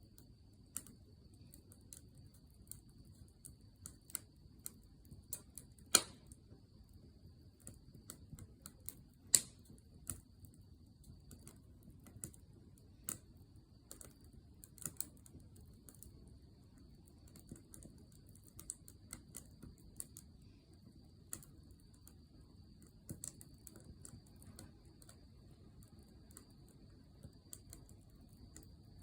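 Wood campfire crackling: a steady stream of small irregular pops and snaps, with two sharp, loud pops about six and nine seconds in.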